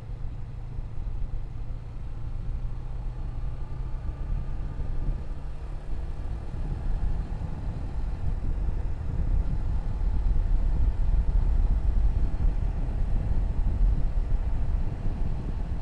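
Motorcycle running on the road, with wind rumble on the microphone. A steady low engine hum at first, then the rumble gets louder about seven seconds in as speed picks up.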